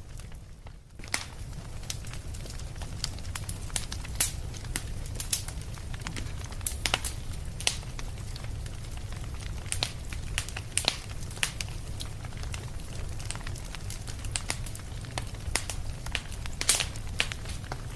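Fireplace fire crackling: irregular sharp pops and snaps over a steady low rumble, after a brief lull in the first second.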